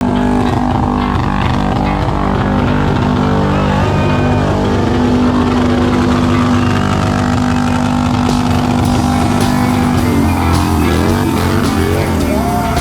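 Motorcycle engine running under rock music. From about ten seconds in, a melody with bending pitch comes in over it.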